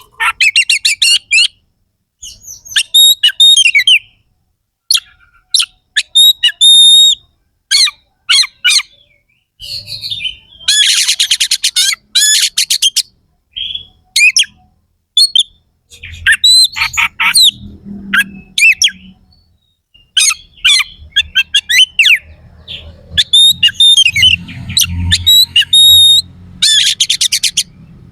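Oriental magpie-robin (kacer) singing in short bursts separated by brief pauses. The phrases mix sharp whistled notes with rapid, harsh trills of fast-repeated notes, the rough rapid-fire "shooting" song. A faint low hum lies under the second half.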